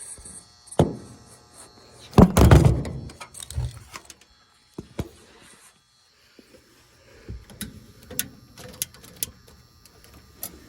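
Handling noise: a thump, then a loud clatter about two seconds in that dies away over about a second, followed by scattered sharp clicks and light taps.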